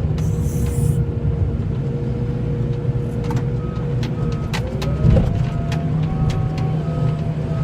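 A snowplow vehicle's engine runs steadily with a whine that shifts in pitch. About four seconds in, a backup alarm starts beeping about twice a second as the vehicle reverses, and there is a single clunk about five seconds in.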